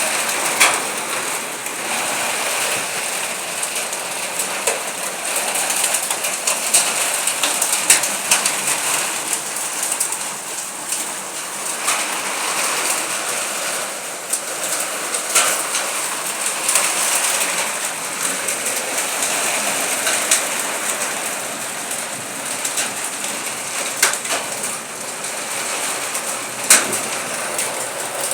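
Heavy rain pouring down steadily, with sharp taps of drops or stones striking a hard surface every few seconds standing out above the hiss.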